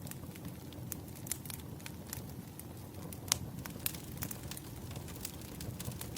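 Wood fire burning, with irregular crackles and pops from the firewood over a low rumble of flames. One sharper pop comes about three seconds in.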